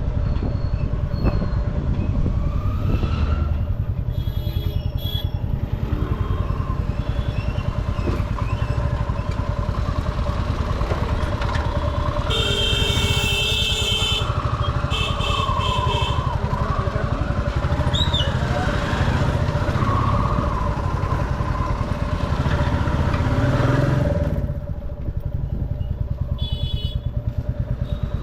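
Motorcycle engine running steadily while riding through busy street traffic. Short, high-pitched tones cut in around the middle and again near the end.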